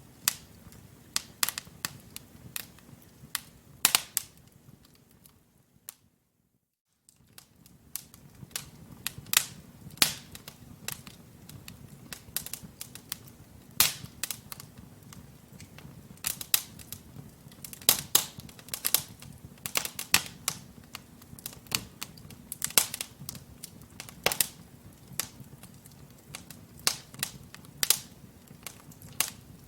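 Wood logs burning in a fireplace, crackling with frequent irregular sharp pops and snaps over a low steady rush of flame. About six seconds in, the sound cuts out completely for about a second.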